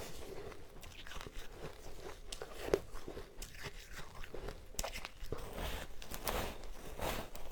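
Close-miked crunching and chewing of powdery ice, made up of bites and many short crackles. One sharp crunch comes near three seconds in, and the crunching grows denser in the last couple of seconds.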